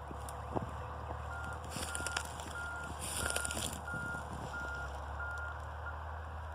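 A vehicle's reversing alarm beeping at one steady pitch, about eight beeps, roughly three every two seconds, starting a little over a second in and stopping near the end, over a steady low hum.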